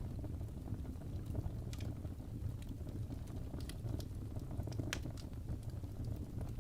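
Wood fire burning in a fireplace: a steady low rumble of the flames with irregular sharp crackles and pops from the burning logs, one louder pop about five seconds in.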